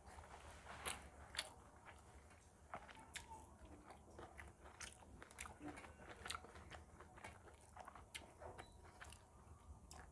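Close-miked chewing of a mouthful of rice and curry: soft, wet mouth clicks and smacks at irregular intervals, with two louder ones about a second in.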